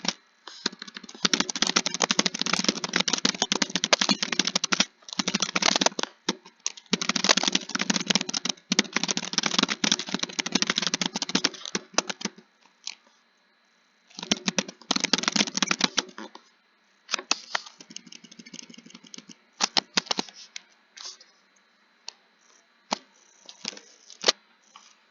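Computer keyboard typing in fast runs of keystrokes broken by short pauses. Past the middle the typing thins out to scattered single clicks.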